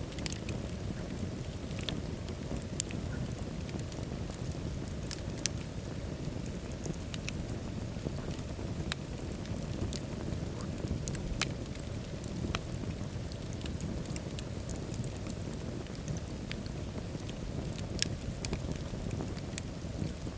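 Wood fire burning in a fireplace: a steady low rumble of flames with scattered sharp crackles and pops every second or two.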